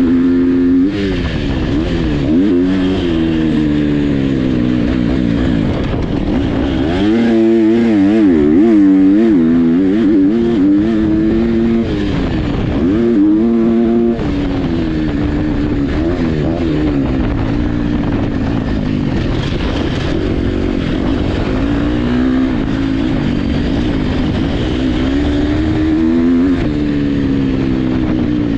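Motocross dirt bike engines revving hard, the pitch climbing and dropping over and over with throttle and gear changes.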